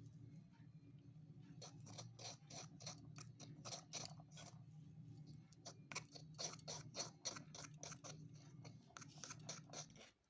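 Faint, quick, irregular strokes of a small utensil, a few a second with a short pause midway, over a steady low hum.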